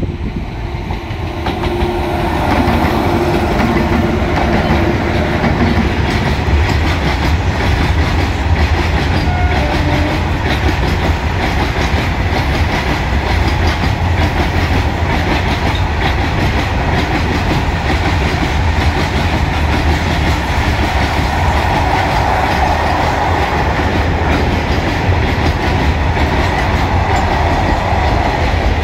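WAG-9 electric locomotive and a long freight train of wagons passing close by, the wheels clicking over rail joints in a continuous run. The noise swells about two seconds in as the locomotive reaches the camera, then holds steady as the wagons roll past.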